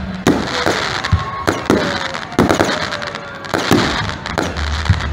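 Aerial fireworks shells bursting: about ten sharp bangs at irregular intervals, with crackling in between.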